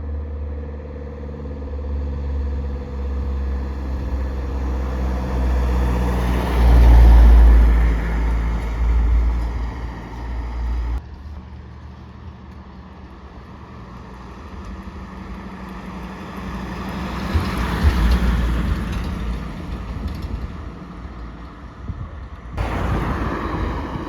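Motor vehicles on an asphalt road: engine and tyre noise, with two swells as vehicles come close and draw away, broken by abrupt cuts.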